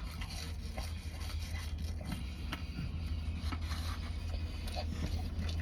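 Steady low hum with faint scrapes and small clicks scattered over it.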